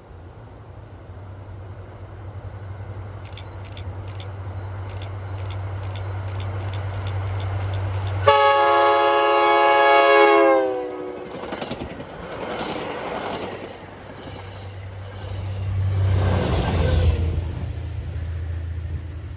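Diesel commuter train approaching, its rumble growing louder with faint regular clicks, then sounding a loud multi-chime horn for about two seconds whose pitch drops as the locomotive passes. The train then rushes by with swells of rail and wheel noise.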